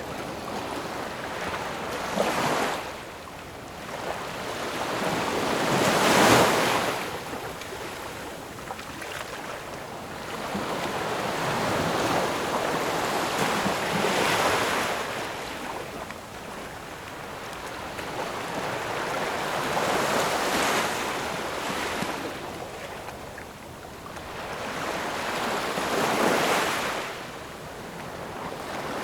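Ocean waves breaking and washing in, each surge of surf swelling and falling away about every six seconds, the strongest a little over six seconds in.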